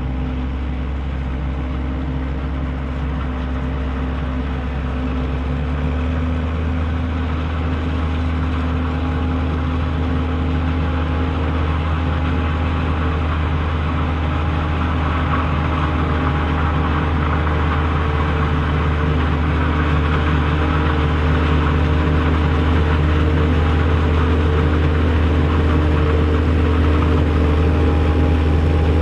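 Large tractor diesel engine running steadily under work, slowly growing louder, with a small step in its low note about six seconds in.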